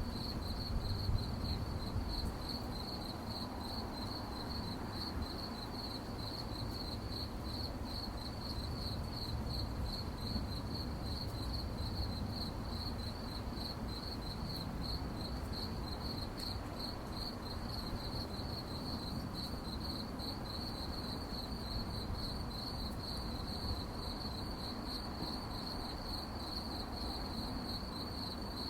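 Crickets chirping at night: a steady, fast, high-pitched pulsing trill that goes on without a break, over a low background rumble.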